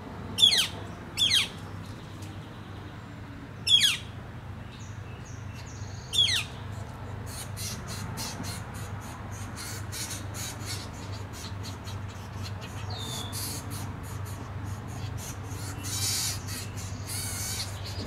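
Four loud, sharp bird calls, each sliding steeply down in pitch, in the first six seconds. Then a fast, dense run of ticking with a buzzy stretch near the end, the begging and feeding sounds of northern flicker nestlings being fed at the nest hole by a parent. A steady low hum runs underneath.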